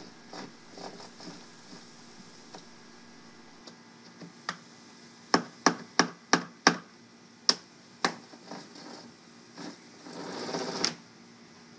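Sharp clicks and knocks from a home-made auto-retracting leash reel being worked, about eight of them in quick succession from about four to eight seconds in, then a short rushing sound near the end.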